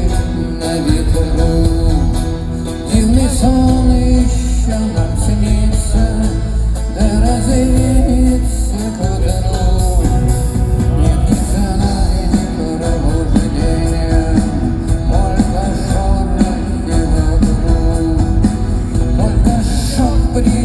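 Live rock band playing loud through an arena's PA, with a steady heavy bass and drum beat, electric guitar and a singing voice, as heard from the audience.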